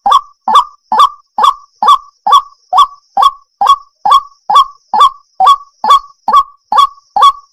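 Waterhen calling in a steady, unbroken series of short, harsh notes, a little over two a second.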